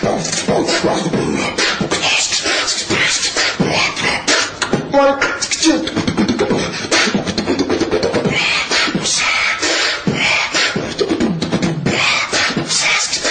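Beatboxing: a performer's mouth makes a fast run of drum-like clicks, snares and kick sounds mixed with hummed and pitched vocal effects. The sound comes off a TV speaker.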